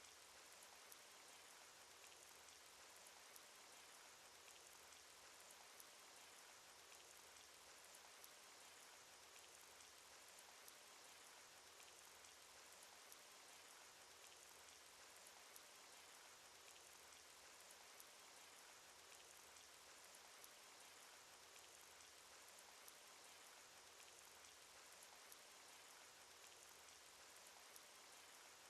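Faint, steady cartoon rain sound effect: a constant patter of rainfall with scattered small drop ticks.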